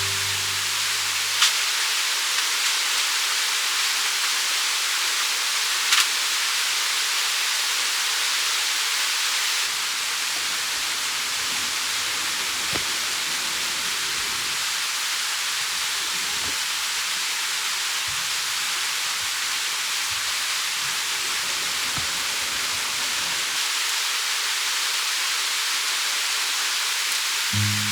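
Shishamo sizzling on a small grill net over a campfire: a steady hiss with two sharp pops in the first few seconds.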